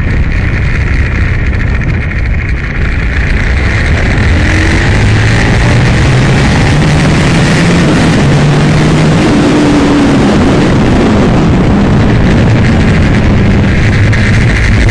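Aprilia Tuono motorcycle engine running hard at speed, its pitch rising and falling as the rider accelerates and shifts, under heavy wind rush.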